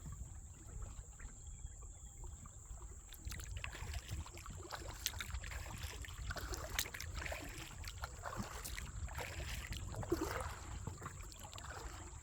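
Kayak paddle strokes dipping and splashing in creek water, with water dripping off the blade, over a steady low rumble. The first few seconds are quieter; the strokes set in about three seconds in.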